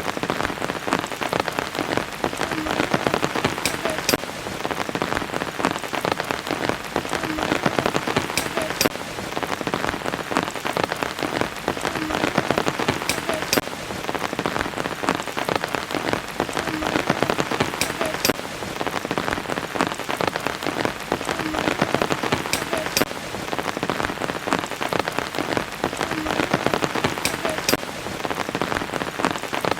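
Steady rain falling, dense with the clicks of single drops striking. The same pattern of drops comes round again about every four and a half seconds, as in a short looped recording.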